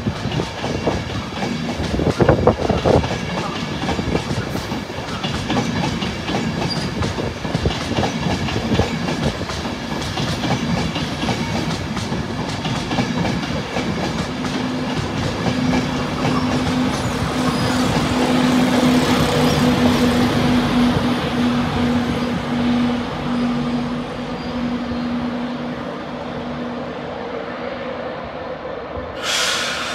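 A train running past on the rails, its wheels clicking rhythmically over the rail joints. A steady hum comes in about halfway through and fades near the end, and there is a brief burst of hiss right at the end.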